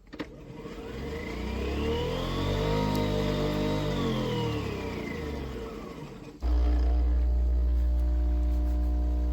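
Nespresso Vertuo Pop+ coffee machine starting a brew. A click is followed by the capsule-spinning motor whining up in pitch and back down over about six seconds. Then the pump cuts in with a loud steady hum.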